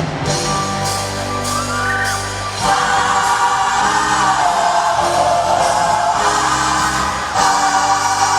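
Large gospel choir singing with instrumental accompaniment. Sustained chords play alone at first, then the choir comes in loudly about two and a half seconds in.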